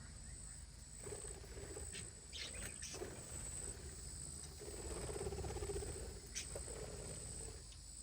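Insects trill steadily at a high pitch, with a few short chirps from small caged birds and some low muffled sounds partway through.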